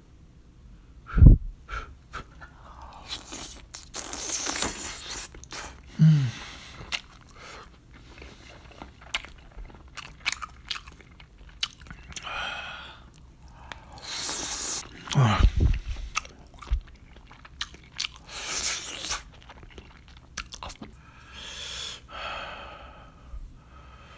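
A person eating braised spicy chicken, chewing close to the microphone in irregular bursts, with two dull thumps, about a second in and near the middle.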